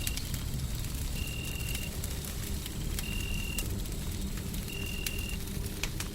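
Wood fire crackling with scattered small pops over a steady low rumble of noise. A thin high tone sounds for about half a second roughly every two seconds.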